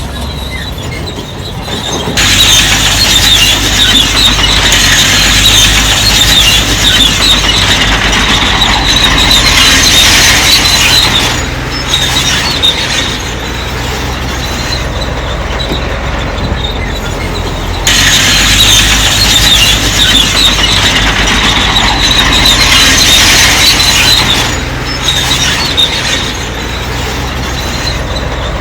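Crawler bulldozer working: its diesel engine runs steadily while the steel tracks squeal and grind in two long stretches, about two seconds in and again after about eighteen seconds, as the dozer moves.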